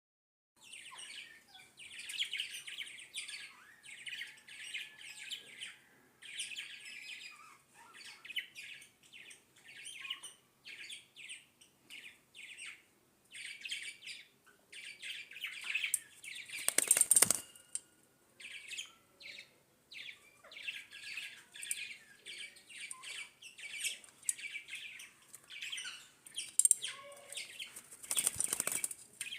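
Small birds chattering: rapid, scratchy twittering and short chirps coming in quick bursts, with two louder rustling flurries, one around the middle and one near the end.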